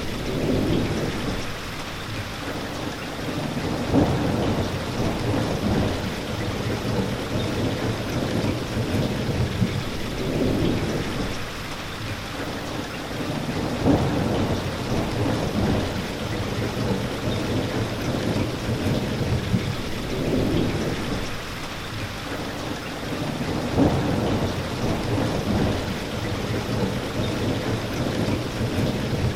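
Steady heavy rain falling, with low rolling thunder that swells and fades several times. Three brief louder hits stand out about ten seconds apart.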